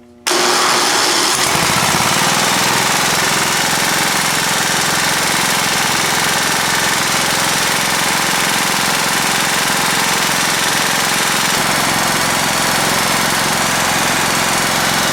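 Single-cylinder Kohler engine of a John Deere L160 riding mower starting up about a quarter second in and then running steadily. The engine has a knock from crankshaft wear left by a broken connecting rod, and its oil has just been mixed with about 30% Lucas heavy duty oil stabilizer to try to quiet it.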